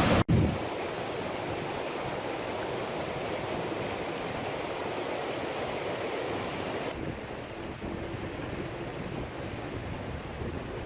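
A river waterfall rushing steadily. It cuts out briefly just after the start, and about seven seconds in it turns less hissy.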